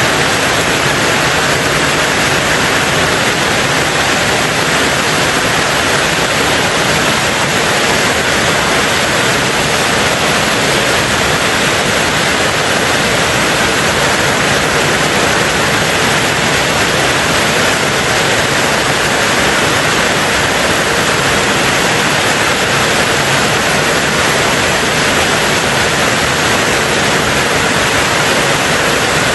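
Steady heavy rain on a tin roof, an even, unbroken hiss with no single drops standing out.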